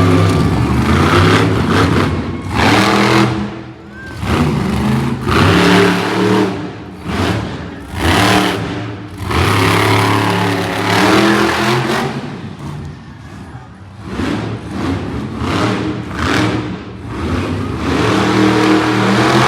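Monster truck engine revved hard over and over, the pitch climbing and falling in surges about every second or two.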